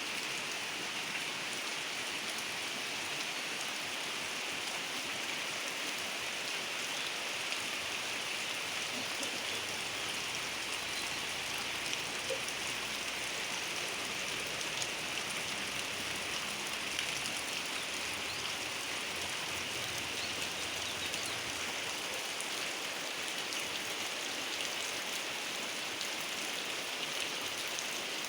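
Heavy rain falling steadily, a continuous hiss of rain with scattered drop ticks.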